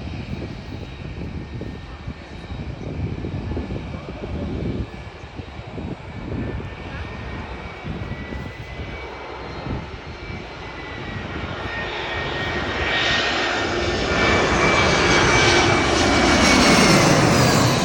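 Jet airliner's turbofan engines approaching low overhead: a steady whine and a broad roar grow steadily louder over the last several seconds, loudest near the end.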